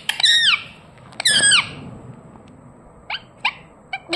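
Indian ringneck parrot calling: two shrill calls that slide down in pitch in the first two seconds, then three short sharp chirps near the end.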